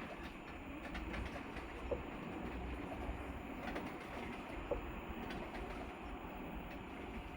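Panasonic inverter washing machine in its wash cycle: the three-phase brushless DC motor drives the wash back and forth with steady churning and a low hum. Two short clicks come about three seconds apart.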